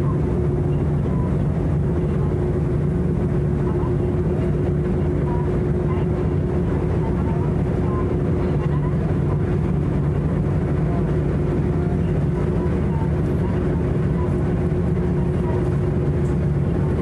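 Steady low drone of the icebreaker Aurora's engines heard on board, one even hum over a rumble, with faint indistinct voices behind it.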